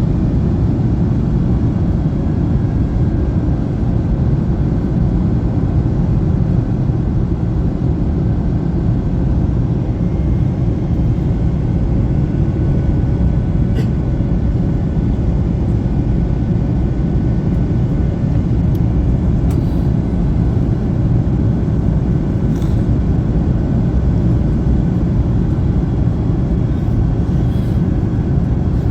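Airbus A321neo cabin in flight: a steady, loud low rumble of airflow and engine noise, with a few faint ticks.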